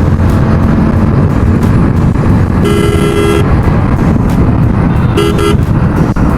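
A Hero Splendor Plus BS6 motorcycle being ridden at speed, its engine and the wind on the microphone making a dense steady rumble. A vehicle horn sounds once for under a second about halfway in, then gives two short toots near the end.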